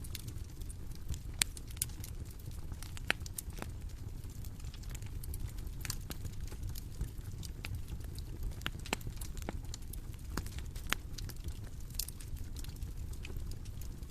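Bonfire crackling: irregular sharp pops and snaps, a dozen or so, over a steady low rumble of burning wood.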